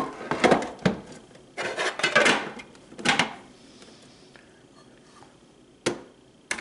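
Plastic clacks and knocks of a Keurig coffee maker's water reservoir being fitted back onto the machine. There is a run of sharp clatter in the first three seconds, then two single clicks near the end.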